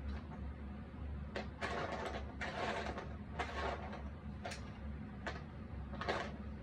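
Cardboard jigsaw puzzle pieces being handled on a table: a string of soft scrapes as pieces slide, with a few light clicks as they are set down, over a steady low hum.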